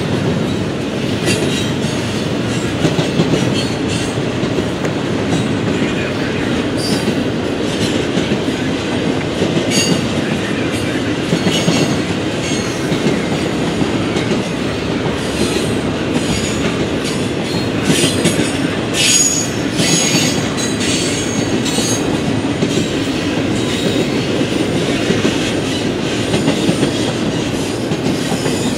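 Double-stack intermodal train's loaded container well cars rolling past: a steady rumble of steel wheels on rail, with short high-pitched wheel squeals now and then, more of them in the second half.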